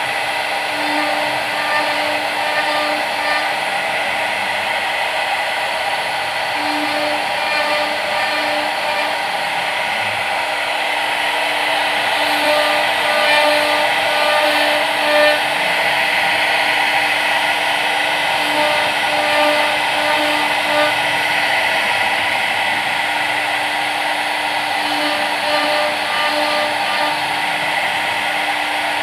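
CNC machine running, its spindle motor giving a steady whine over continuous cutting noise, with a few tones coming and going.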